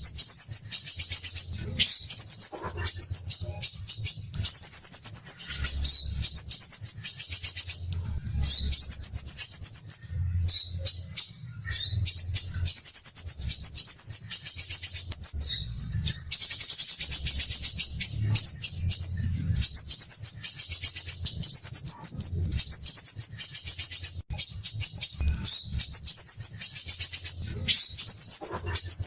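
Crimson sunbird (sepah raja) singing: coarse, tightly packed high-pitched trills in runs of a second or two, broken by short pauses.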